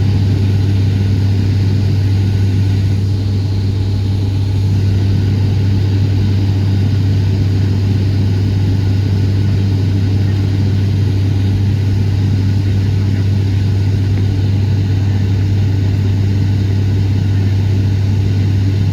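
Airliner cabin noise in flight: the steady drone of the engines and rushing air, with a strong, even low hum.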